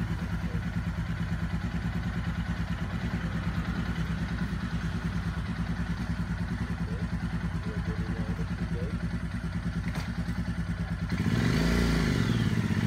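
Royal Enfield Himalayan's 411 cc single-cylinder engine idling with an even, steady pulse. It gets louder about eleven seconds in.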